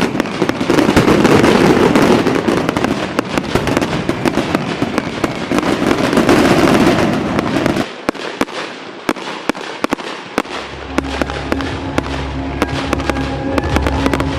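Fireworks bursting and crackling in a dense barrage that thins to scattered sharp pops about eight seconds in. Music with steady held notes comes in under the last pops.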